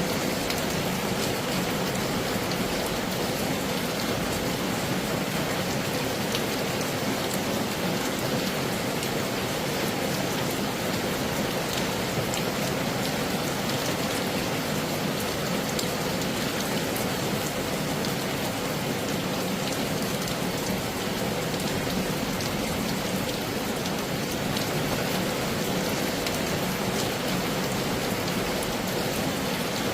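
Heavy rain falling steadily, an even hiss with many fine, sharp drop ticks.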